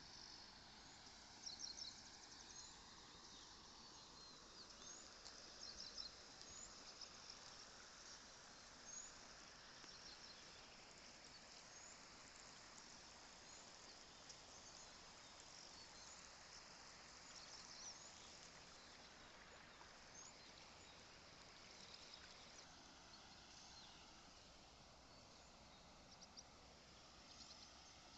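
Faint outdoor ambience: small birds chirping and twittering at intervals over a steady background hiss, with brief bursts of chirps about a second and a half in, around six seconds, around nine seconds and again near eighteen seconds.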